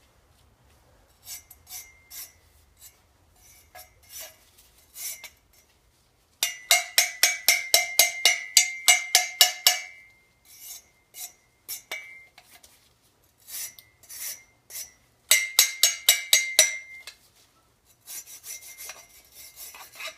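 Wire brush scrubbed back and forth over the perforated metal core of a two-stroke exhaust silencer to clear its holes. It makes quick scraping strokes, about four or five a second, with a ringing tone from the metal tube. The strokes come in spells, the longest from about six to ten seconds in.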